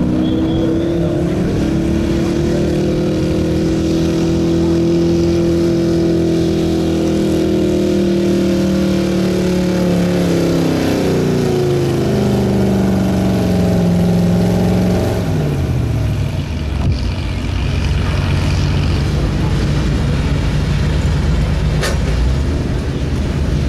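1977 Ford F-350's stock gas engine running hard under load while pulling a weight sled, its pitch slowly sagging as the load builds. About 15 seconds in the revs fall away to a low idle rumble, with a sharp click near the end.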